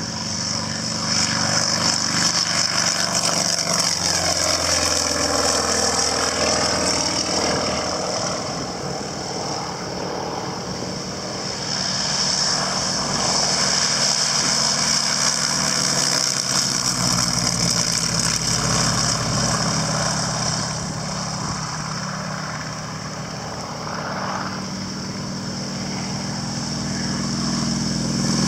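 Vintage propeller aircraft's piston engine running, its pitch sliding down a few seconds in, with the loudness swelling and easing off more than once as it takes off.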